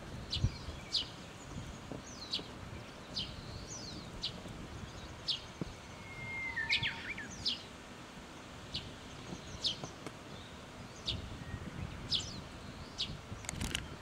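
Small bird calling: short, sharp, high chirps repeated about once a second, with a brief level whistle that drops off about halfway through, over a low background rumble.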